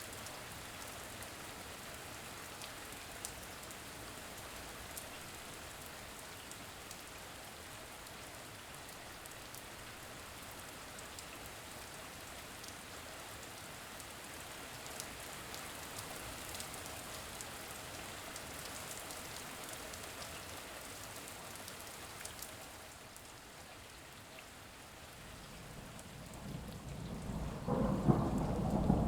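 Steady rain falling, an even hiss with scattered drop ticks. Near the end a low rumble of thunder builds and turns loud.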